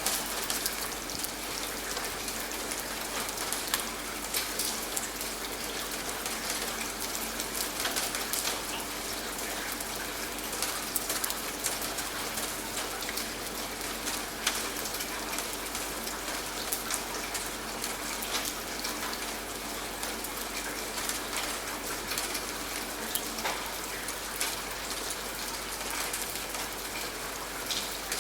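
Steady rain falling, with many separate drop hits clicking sharply through an even hiss.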